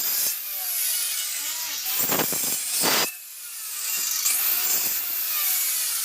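Hand-held electric power tool cutting into wood, its motor whine sweeping up and down in pitch as it takes the load. The sound eases off briefly about three seconds in, then resumes.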